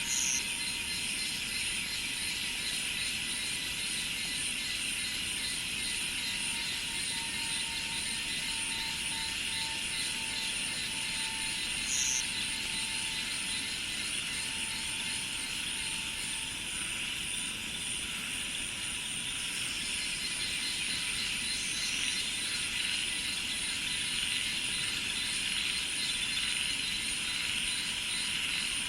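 A steady, dense chorus of cicadas and other insects, a constant shrill hiss with a fine pulsing buzz above it. A few brief high chirps stand out about every ten seconds.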